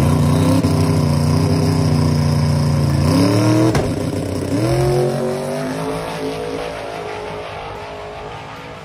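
Twin-turbo 427 cubic-inch LS V8 of a 1968 Chevrolet Chevelle drag car held at steady high revs on the starting line, then launching: about three seconds in the revs climb sharply, drop and climb again with a gear change, and the sound fades as the car pulls away down the track.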